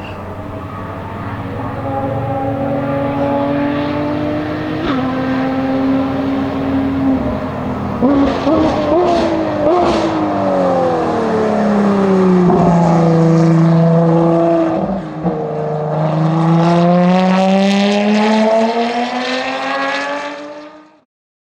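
Ferrari FXX K Evo's V12 engine running on track: a steady pull, then a quick series of downshift blips with crackles about eight to ten seconds in, the pitch falling as it slows, then rising again as it accelerates away. The sound cuts off suddenly near the end.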